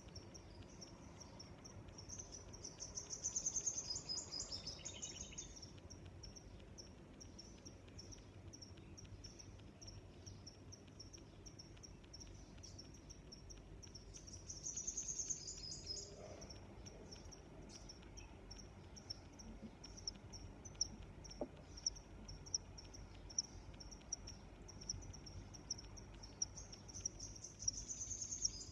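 Crickets chirping: a steady series of short, high chirps at about one to two a second, with a louder, longer trill about three seconds in, again around the middle, and near the end.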